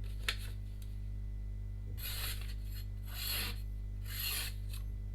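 A freshly 180-grit-sharpened VG10 Chinese cleaver edge slicing through paper: four short hissing strokes about a second apart, the edge now free of chips and passing the paper smoothly.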